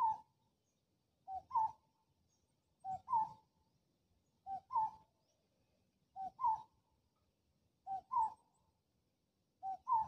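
A bird calling in two whistled notes, a short lower note then a louder higher one, repeated steadily about every second and a half, some seven times.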